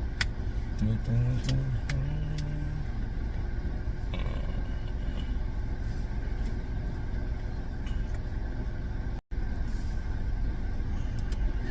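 Steady low rumble of a car's engine and tyres, with brief faint voices about a second or two in; the sound cuts out for an instant about nine seconds in.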